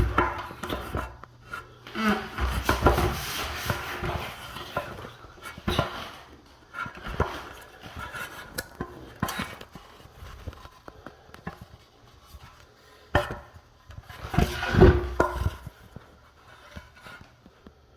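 Irregular knocks, clatter and rubbing of hard objects being handled, louder about two to four seconds in and again around fifteen seconds.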